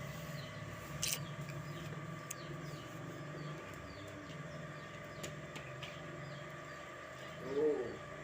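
Small bird chirping over and over in short falling notes, with a few sharp light knocks and a short low call near the end.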